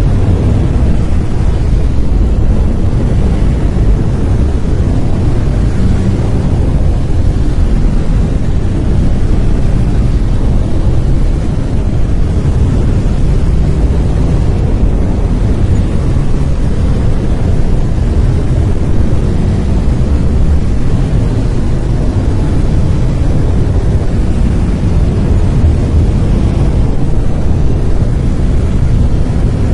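Brown noise: a loud, steady, deep hiss with most of its energy in the bass, thinning out toward the treble, with no tones or events in it.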